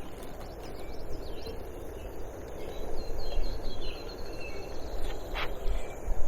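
Wind buffeting the microphone as a gusty low rumble, with a bird calling a few chirps and a short trill in the middle.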